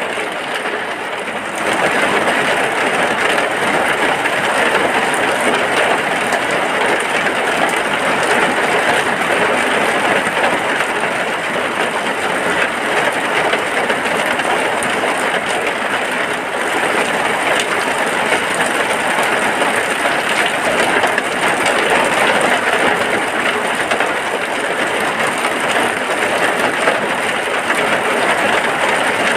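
Heavy rain falling steadily in an even downpour, a little softer for the first second or so.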